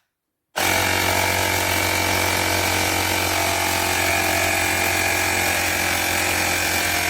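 Woowind AP2-P cordless electric tyre pump switching on about half a second in and running steadily, its small compressor buzzing as it pumps air into a bicycle tyre.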